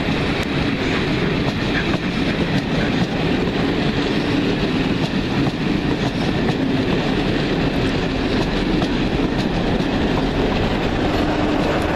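Passenger coaches of a train rolling past close by, a steady, loud rush of wheel and rail noise.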